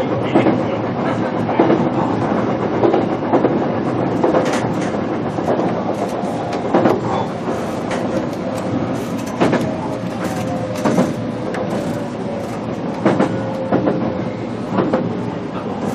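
Onboard running sound of a JR Kyushu BEC819 series battery-electric train (KuMoHa BEC819-1) running on battery power. Wheels clack over rail joints amid a steady rolling rumble. A thin traction-motor whine runs under it, sinking slightly in pitch in the second half.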